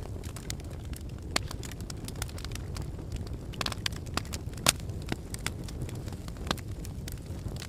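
Volcanic lava flow: a steady low rumble with irregular sharp cracks and crackles throughout, the loudest about one and a half and four and a half seconds in.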